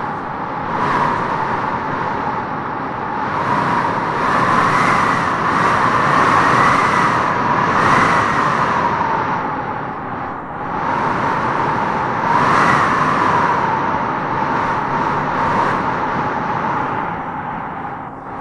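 Wind blowing in gusts: a steady rush with a whistling tone that rises and falls in pitch, swelling from about four to nine seconds in and again around twelve seconds.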